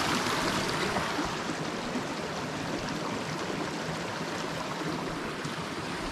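A small mountain stream rushing and burbling steadily over rocks.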